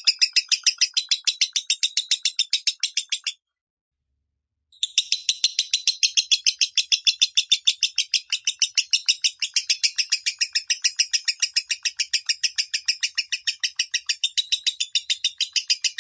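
Lovebird singing the fast, chattering 'minor' song: a rapid, even run of high chirps, about five or six a second. It breaks off a little over three seconds in and starts again about a second and a half later.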